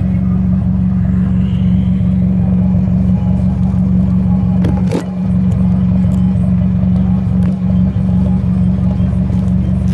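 Straight-piped Toyota Celica exhaust running at a steady engine speed, a loud, even low drone. About five seconds in the sound dips briefly with a sharp click.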